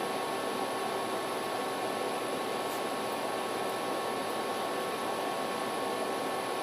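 Steady background hiss with a few faint, unchanging hum tones, like room or fan noise picked up by the microphone; no speech.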